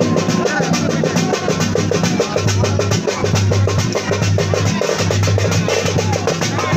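Fast, steady drumming, many even strokes a second, as part of loud music.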